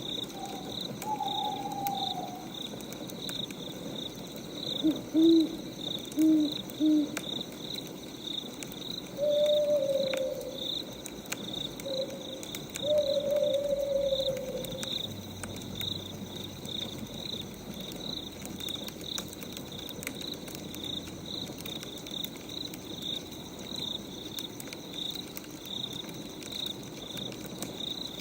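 An owl hooting in short low calls, with a few longer, higher hoots that stop about fifteen seconds in, over crickets chirping in a steady even rhythm.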